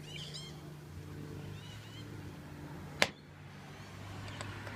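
A single sharp click about three seconds in, over a steady low hum, with a few faint bird chirps near the start.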